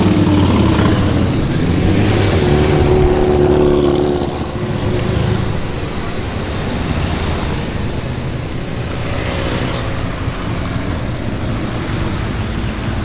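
Motorcycle engines running, loudest and changing pitch as they rev for the first four seconds, then settling into a steadier, somewhat quieter engine noise.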